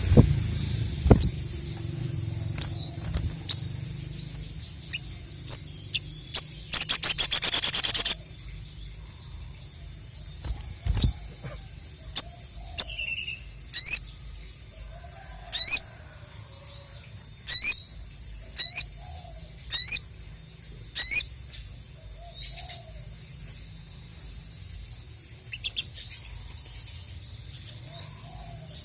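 Sogok ontong (sogon), a small sunbird-type songbird, singing: high-pitched chirps, a fast rattling trill about seven seconds in, then a run of six or so sharp repeated calls about a second apart.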